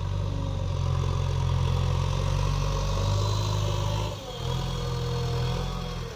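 Heavy diesel machinery engine running steadily with a low, even hum. It dips briefly about four seconds in.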